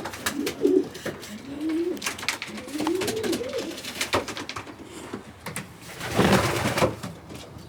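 Domestic pigeons cooing, with low rising-and-falling coos through the first few seconds, and scattered clicks and scratches. A burst of rustling comes about six seconds in.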